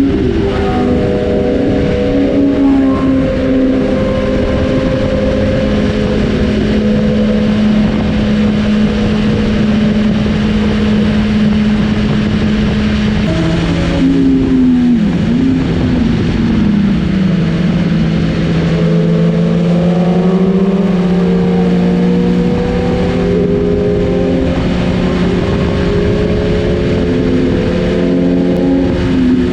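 Superbike engines on a highway: one bike holds a steady cruising note with constant wind and road noise, while other bikes' engines rise and fall in pitch around it. About thirteen seconds in, the main engine note steps down to a lower pitch and holds there.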